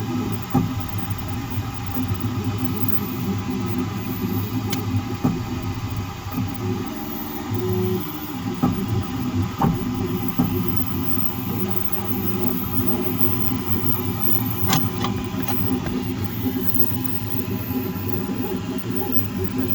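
Creality K1 Max 3D printer running, with steady motor and fan noise and changing stepper-motor tones, broken by scattered sharp knocks. The strongest knock comes near the end. This is the banging on Z-axis movement that the owner is asking about.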